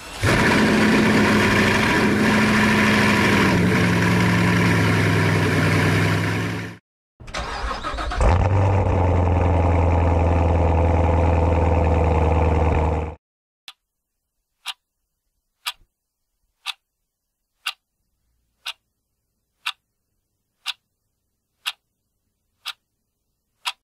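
Chevrolet Corvette V8 engine running hard for about seven seconds, its note slowly falling, then after a short break starting up and running on for about five seconds. Then a clock tick about once a second, ten times, counting down.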